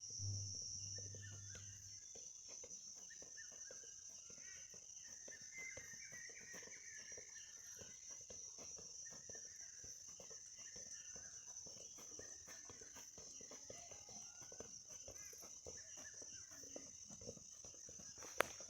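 Faint outdoor ambience: a steady high-pitched drone with scattered light taps and faint distant voices. A sharp click comes near the end.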